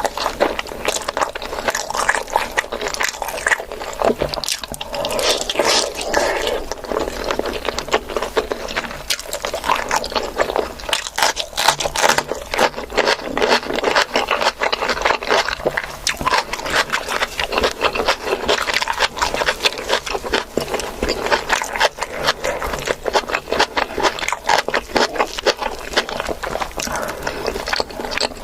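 A person chewing and eating, with wet smacking mouth sounds and many quick clicks, keeping up steadily throughout.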